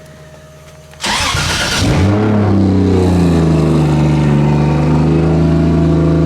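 Nissan 240SX's 2JZ-GTE turbocharged inline-six started: the starter cranks about a second in, the engine catches within a second, then settles into a steady idle.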